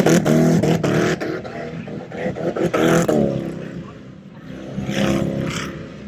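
Tut Truck's engine revving hard. It eases off about three seconds in and builds again about five seconds in.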